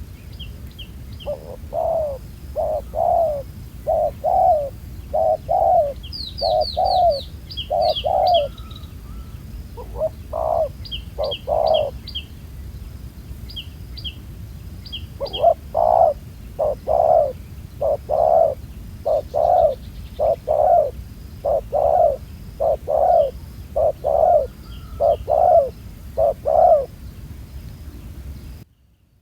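Spotted doves cooing in repeated, rhythmic phrases, with short high chirps of a small bird over them. The sound cuts off suddenly near the end.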